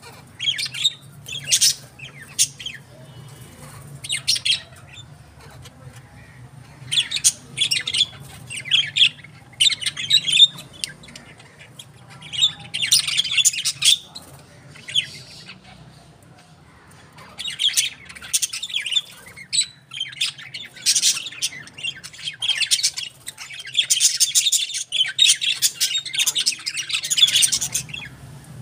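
Birds chirping and squawking in irregular clusters of short, high calls, over a faint low hum.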